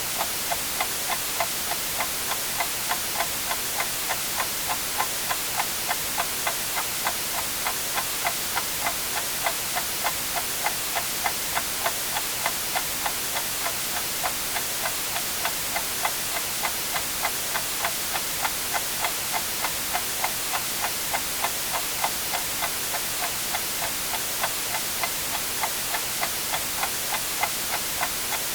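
Clock ticking steadily, about two ticks a second, over a continuous white-noise hiss.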